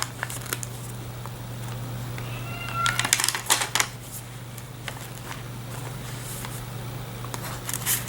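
Paper and vellum pages of a handmade junk journal rustling and crinkling as they are handled and turned, in a few clusters of soft crackles, over a steady low hum. A brief high squeak comes about two and a half seconds in.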